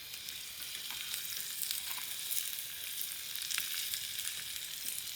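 Cauliflower and eggplant frying in hot oil in a pan, a steady sizzle with scattered small crackles.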